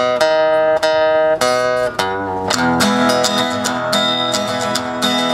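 Guitar playing the intro of a country-and-western song: ringing chords struck about twice a second, turning into busier, continuous strumming about halfway through.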